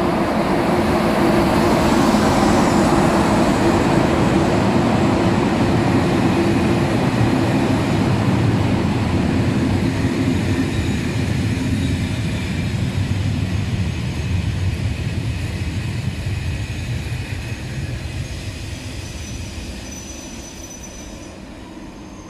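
SNCF BB 26000 electric locomotive hauling Intercités coaches past and away: a rumble of wheels on the rails, loudest a few seconds in, then fading steadily as the coaches roll by and recede.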